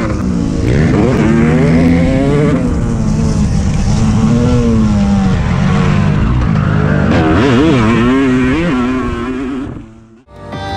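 Motocross bike engines revving hard, the pitch climbing and dropping again and again as the throttle is worked and the gears change; the sound fades out near the end.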